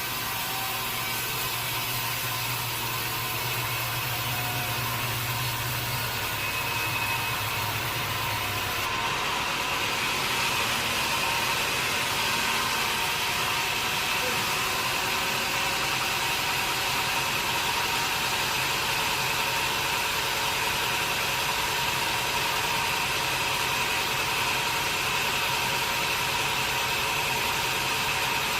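Sawmill machinery running steadily between cuts, a continuous mechanical drone. A low hum drops out about nine seconds in, and a steady high whine carries on after it.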